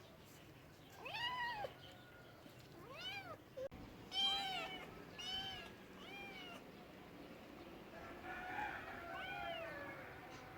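Domestic cat meowing repeatedly: about seven short meows, each rising then falling in pitch, the loudest about four seconds in.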